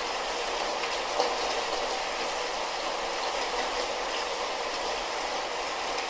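Light rain falling steadily, an even hiss with a few single drops ticking out of it, one a little louder about a second in.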